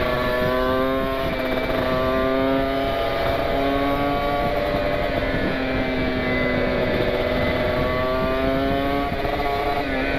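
Kawasaki Ninja 150 RR single-cylinder two-stroke engine running at high revs while riding, its pitch holding fairly steady with slight rises and falls and dipping briefly near the end.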